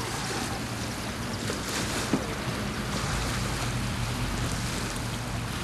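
Wind buffeting the microphone over small lake waves washing at the shore, under a steady low hum, with one sharp knock about two seconds in.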